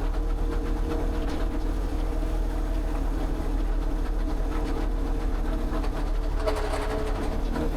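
An engine or motor running at a steady speed, with a rougher, rattling stretch near the end.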